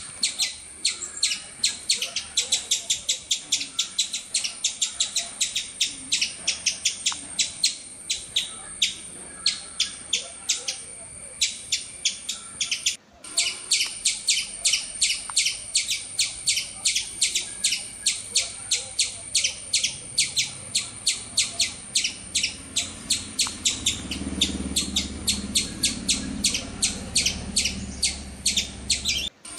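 Small songbird chirping: a steady run of short, high chirps, about four a second. They break off briefly about halfway through and again near the end.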